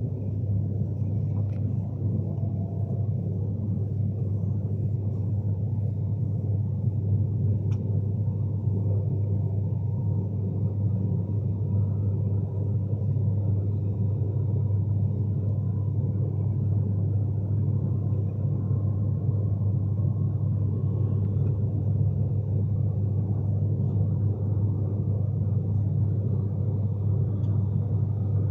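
Steady low rumble of a Class 390 Pendolino electric train running along the line, heard from inside the carriage, with a faint steady hum above it.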